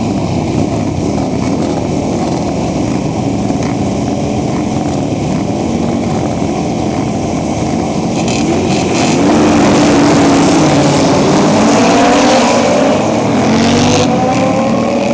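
A grid of classic superbike engines running together at a fast idle with blips of throttle. About two-thirds in, they grow louder and several rise in pitch together as the bikes are revved up.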